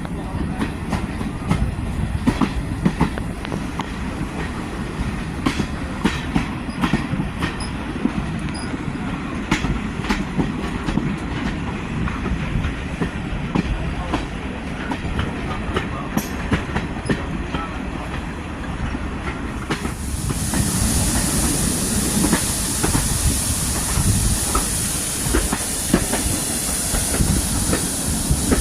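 Heritage railway train running, with a low rumble and wheels clicking over rail joints. About two-thirds of the way through, a loud steady hiss starts and carries on.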